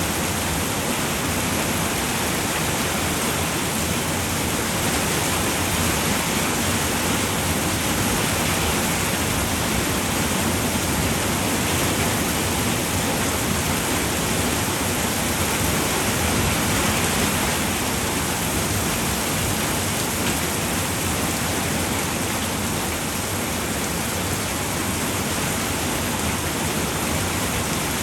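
Steady rain falling on a roof, an even hiss with no distinct drops or thunder.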